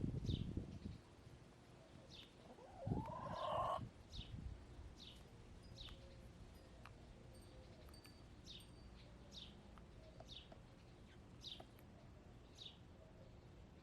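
A wild songbird repeats a short, high, downward-sweeping chirp about once a second over the backyard chickens. About three seconds in a hen gives a louder, rising call, and there are brief low rumbles at the start and with the hen's call.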